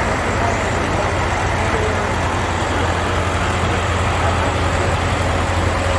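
Light Pro Stock pulling tractor's diesel engine running loud and steady, with a strong low drone and no rise or fall in pitch.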